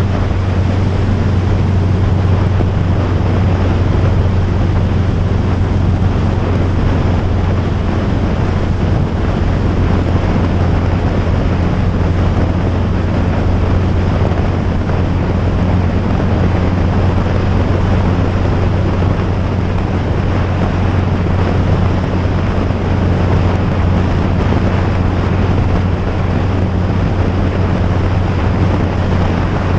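Steady engine drone at an unchanging speed, with wind rushing over the microphone while riding.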